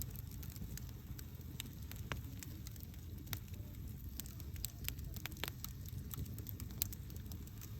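Campfire crackling: irregular sharp pops and snaps over a low, steady rumble of the burning flames.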